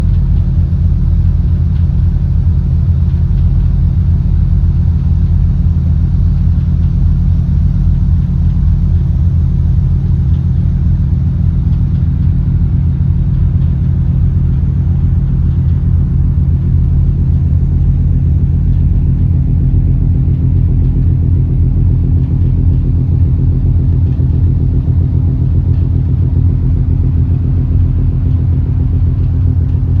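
An engine running at a steady speed: a loud, even low rumble that does not change.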